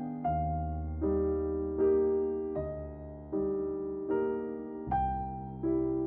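Electric piano music: slow chords struck about every three-quarters of a second, each fading, over a low bass line.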